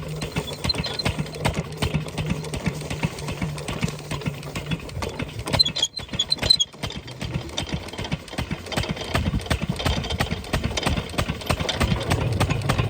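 Stationary diesel engine of a farm water pump set running steadily with a rapid knocking beat. A brief dip with a few sharp clinks comes a little before the middle.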